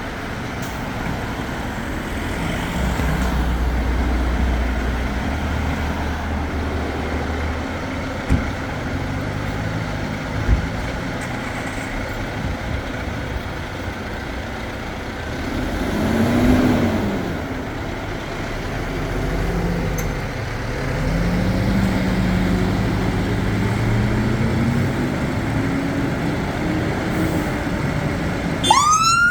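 Fire engines' diesel engines running and pulling away, the engine note rising as they accelerate, with a couple of sharp clicks. A siren starts up with a rising wail right at the end.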